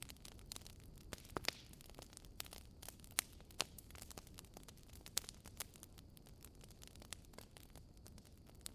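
Wood fire in a fireplace crackling: burning logs giving off frequent sharp pops and snaps over a low steady hiss of the flames, with a few louder pops in the first half.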